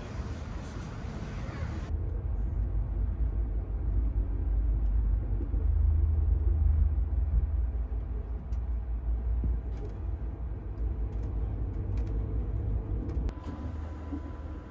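Low rumble of the Coast Starlight passenger train running, heard from inside a car, swelling about halfway through, with a few light clicks and rattles. A faint steady whine comes in near the end.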